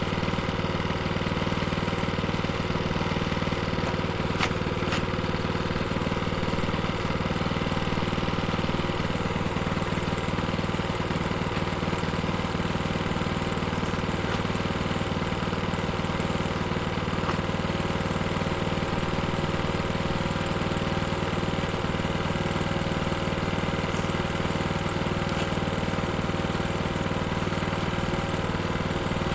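A plate compactor's engine idling steadily, with the machine not yet set to its pounding work.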